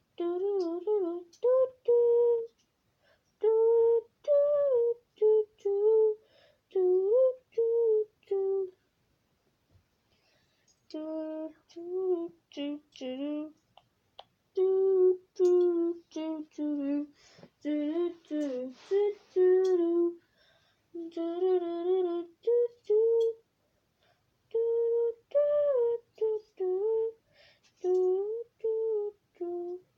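A young person's voice singing a tune without clear words, in short melodic phrases, with a pause about ten seconds in.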